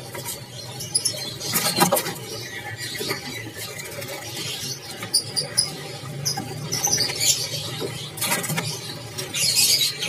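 Small caged birds giving brief, high-pitched chirps and squeaks, scattered irregularly, over a low steady background hum.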